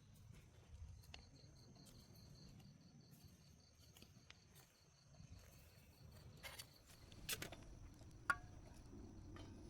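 Cricket chirping steadily in a fast, even train of high pulses, with a few faint clicks and knocks in the second half.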